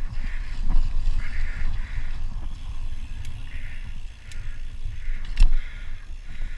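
Wind buffeting the microphone of a moving rider, a steady uneven rumble, with one sharp knock about five and a half seconds in.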